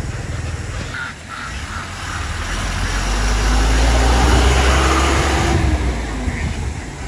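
A motor vehicle passing close by: a low engine rumble swells over a couple of seconds, peaks about halfway through, then fades away.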